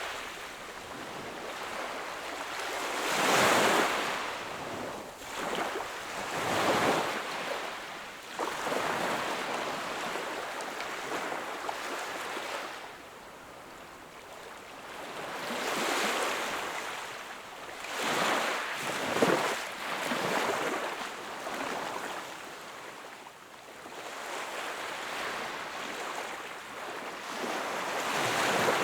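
Sea waves breaking and washing onto the shore, swelling and falling in surges every few seconds.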